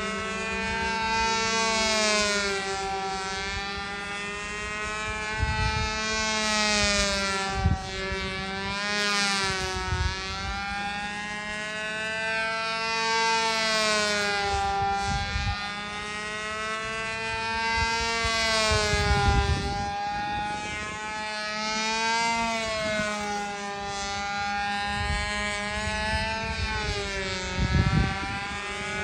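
Small model-airplane engine of a control-line model running at steady high speed, its pitch rising and falling in a smooth cycle about every four seconds as the plane circles past on its lines.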